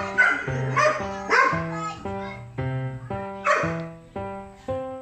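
Background music with a plucked, evenly paced melody, and a dog barking over it about three times: right at the start, about a second and a half in, and again about three and a half seconds in.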